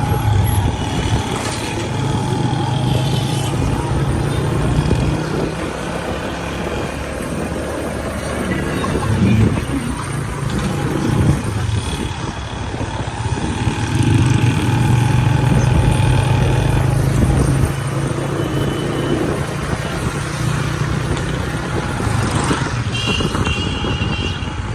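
Road traffic heard from a motorcycle on the move: a steady engine hum with road and wind noise. Held higher tones sound several times, near the start, in the middle and near the end.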